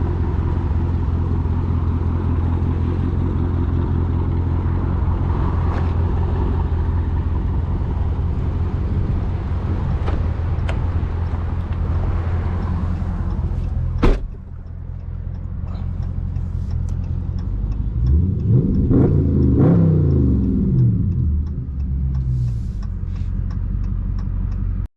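Dodge Charger Daytona 392's 6.4-litre HEMI V8 running steadily while cruising. A sharp click comes about 14 seconds in, after which the engine settles to idle, with light ticking about twice a second. Around 18 seconds a throttle blip rises and falls in pitch, and the engine returns to idle.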